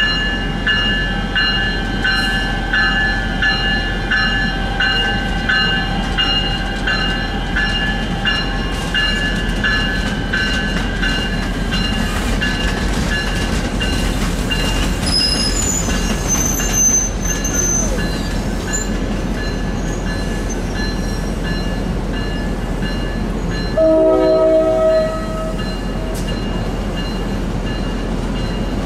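NJ Transit commuter train of Multilevel coaches rolling slowly past, its locomotive bell ringing at about two strokes a second for the first half before fading out. Brief high wheel squeal near the middle, and a short train horn blast a little over a second long near the end.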